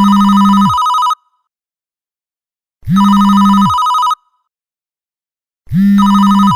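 A telephone ringing three times. Each ring lasts about a second, with about two seconds of silence between rings.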